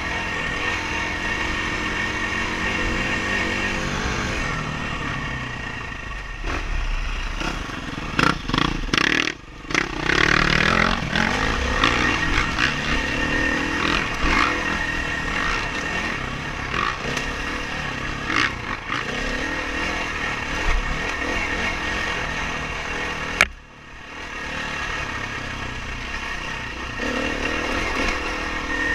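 Dirt bike engine revving up and down as it is ridden over rough trail. A cluster of knocks and clatter comes about a third of the way in, and a single sharp crack near the end is followed by a brief dip in the engine sound.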